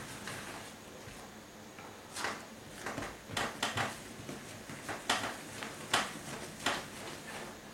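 Kitchen work sounds: a handful of short, separate knocks and scrapes, like utensils, trays or a drawer being handled, starting about two seconds in.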